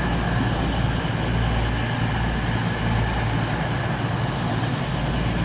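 East Midlands Railway Class 222 Meridian diesel train's engines idling at the platform: a steady low hum with no change in pitch.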